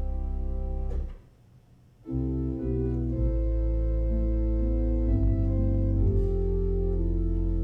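Organ music: held chords over a deep sustained bass. It breaks off about a second in, pauses for about a second, then starts a new phrase with inner parts moving under long held notes.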